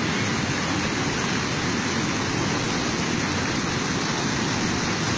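Steady, unbroken rush of fast-running floodwater, an even roar with no breaks or separate events.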